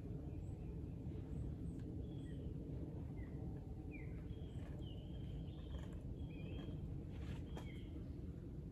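Birds chirping, many short notes that slide up or down, coming thickest in the second half, over a steady low background rumble.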